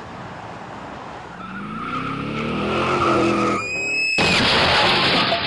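A car engine revving, rising in pitch, then a short high tyre squeal about four seconds in, followed by a loud skidding rush of tyre noise.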